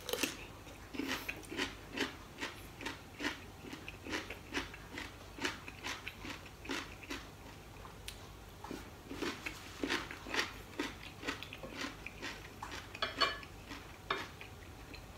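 Close-up chewing of crunchy food, crunching about twice a second, with a short pause a little past halfway. A metallic clink near the end.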